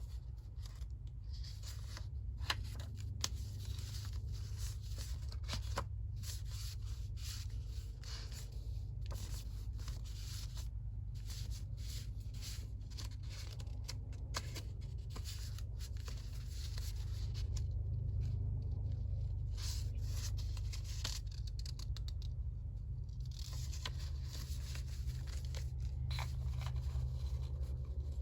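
Paper being handled close to the microphone: irregular rustling, scraping and tearing with scattered small clicks, over a steady low hum.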